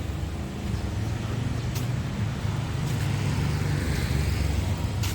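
Busy street traffic passing close by: a steady low hum of vehicle engines, with a few brief clicks.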